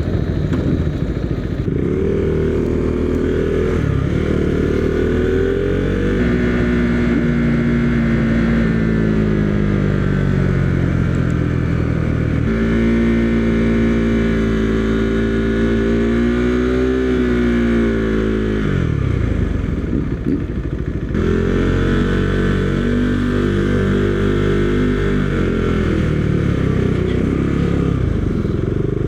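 Motorcycle engine running, its pitch rising and falling in steps several times, with a short dip about two-thirds of the way through before it picks up again.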